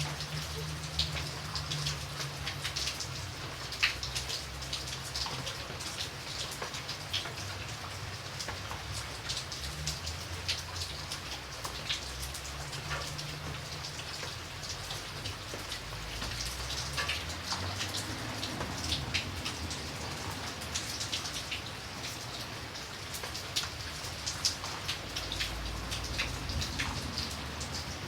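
Steady rain with many individual drops striking a surface in close, sharp ticks, over a low rumble.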